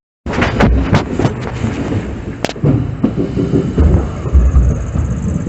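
Passenger train running on the rails, heard from on board: a heavy rumble with a series of sharp knocks and clatters from the wheels and coaches. The sound starts abruptly after a brief dropout.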